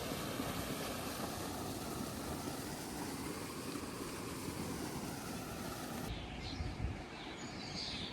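Outdoor ambience: a steady rushing hiss that drops away abruptly about six seconds in, after which small birds chirp, with a low thud or two.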